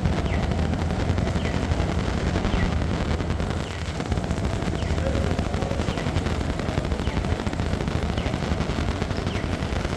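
Heavy rain: a dense, continuous crackling patter of drops landing close to the microphone, with a low rumble underneath.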